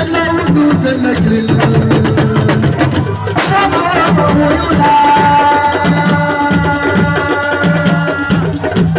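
Assiko band music: drums and percussion keep a steady, repeating beat, with a crash about three and a half seconds in and a held high note after it.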